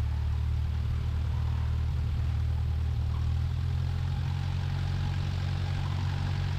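1969 Cessna 172's four-cylinder Lycoming engine idling at taxi power, a steady low drone heard from the cockpit.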